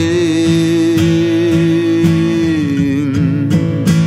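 A Turkish slow song: a singer holds one long note that wavers and drops near the end, then sings the next word, over strummed acoustic guitar.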